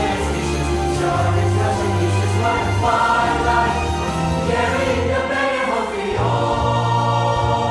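Mixed student choir singing held chords in parts over instrumental accompaniment, the bass notes changing underneath.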